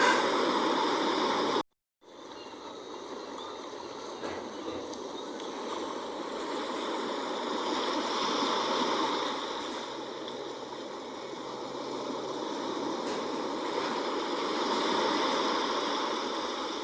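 Sea waves washing in and out, the rush of water swelling and easing in slow surges. The sound cuts out completely for a split second about one and a half seconds in.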